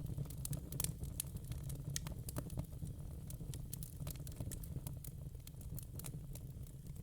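Fire crackling: irregular snaps and pops, several a second, over a steady low rumble.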